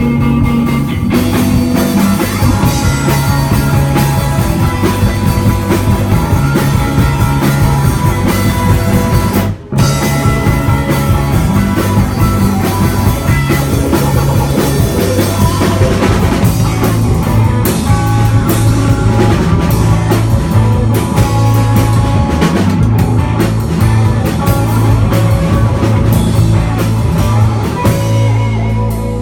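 Live instrumental rock from a guitar, bass and drum kit trio: distorted electric guitar over a heavy bass line and busy drumming, with a brief full stop about ten seconds in before the band comes back in.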